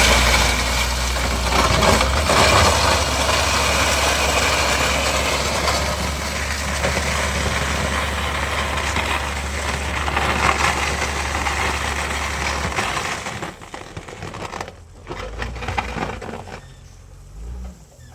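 A construction machine's engine running under a steady low hum, mixed with loud crunching and scraping noise. About thirteen seconds in, the hum and most of the noise stop abruptly, leaving quieter scattered knocks.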